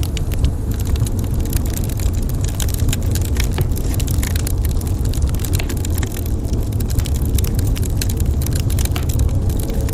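Wood fire burning in a fireplace: dense, irregular crackles and sharp pops over a steady low rumble.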